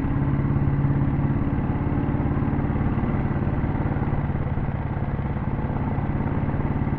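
Royal Enfield Bullet 350's cast-iron single-cylinder four-stroke engine running steadily on the move, with a fast, even exhaust beat.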